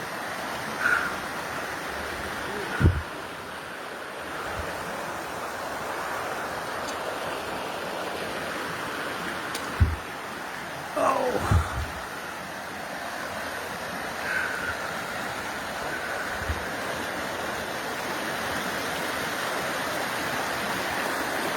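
Steady rushing of running water, like a stream or small waterfall, with a few brief chirps and occasional low thumps.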